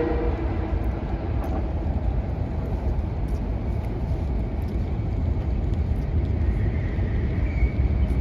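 Metro-North commuter train rolling through the station with a steady low rumble, just after its horn. A faint high whine comes in near the end.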